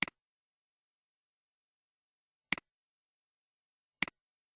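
Three short, sharp clicks, the second about two and a half seconds after the first and the third a second and a half later, with dead silence between them.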